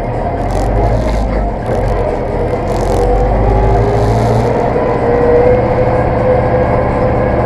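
Zetor tractor diesel engine running steadily under load, its note rising a little about halfway through, with a few brief rattles early on.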